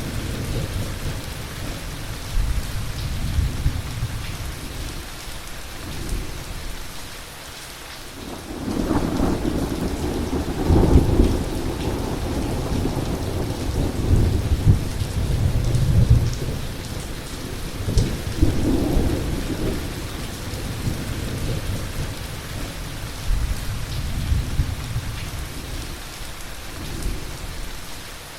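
Heavy rain falling steadily with rolling thunder: a lull about a quarter of the way in, then a long rumbling peal for several seconds and another shorter roll after it.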